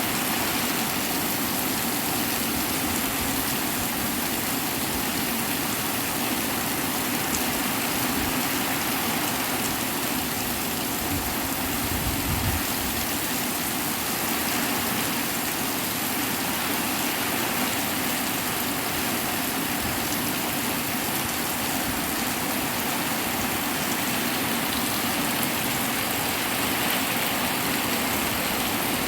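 Heavy rain falling steadily, a dense even hiss, with a brief low rumble about twelve seconds in.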